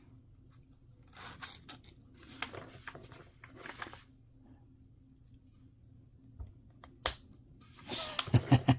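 Rustling and scraping of small plastic model-kit parts being handled, then a sharp click and a few more clicks near the end as parts are fitted together.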